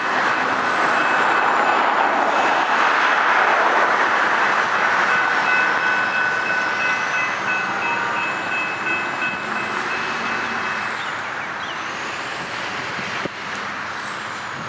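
Florida East Coast Railway freight train rolling past, loudest in the first few seconds and then slowly fading. Thin steady high-pitched tones ride over the rolling noise for most of the first ten seconds, and a single sharp click comes near the end.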